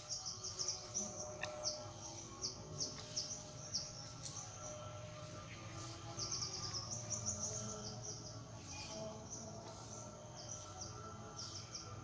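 Small birds chirping in quick runs of short, high-pitched notes, with a faint steady drone underneath.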